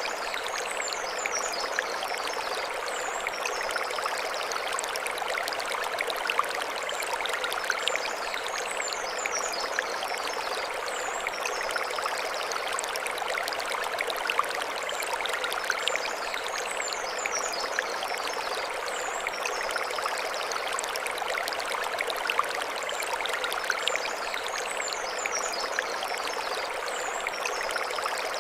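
Mountain stream flowing steadily over stones. A short burst of high chirps comes back about every eight seconds above it.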